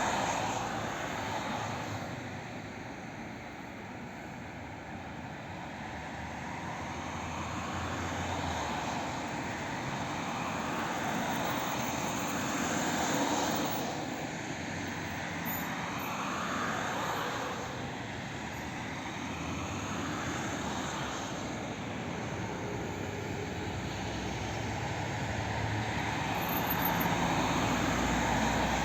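Airbus A330-300 airliner's Rolls-Royce Trent 700 jet engines at take-off power: a broad, steady jet rumble and roar with slowly sweeping tones as the aircraft moves, growing louder toward the end.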